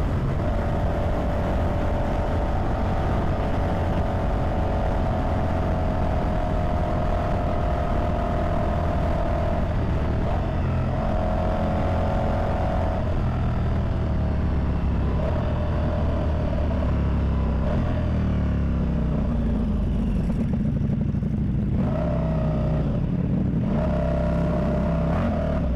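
Ducati Multistrada V4 Pikes Peak's V4 engine running under way over a rush of wind, its pitch dropping and climbing several times with throttle and gear changes.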